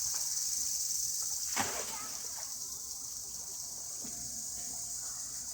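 Steady, high-pitched chirring of insects such as crickets, with one brief sharp knock about a second and a half in.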